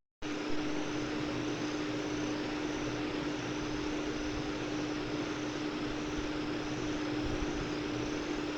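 Steady hiss with a constant low hum, like a fan or small machine running, after a brief dropout at the very start.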